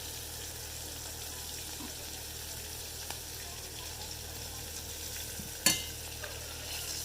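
Battered fish frying in hot oil in a pan, a steady sizzle, with a single sharp knock about five and a half seconds in.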